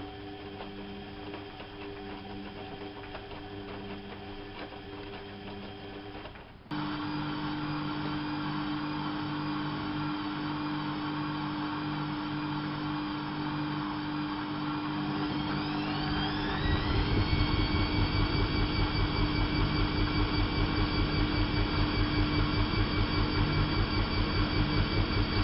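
Bauknecht WAP 6460 front-loading washing machine running a wash programme. About a quarter of the way in it gets abruptly louder, then the motor whine rises in pitch as the drum speeds up and settles into a steady higher speed with a fast, even pulsing.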